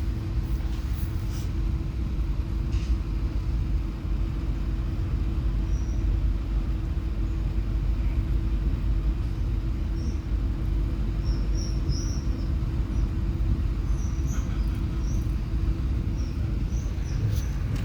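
Passenger train running along the track: a steady low rumble with a constant hum.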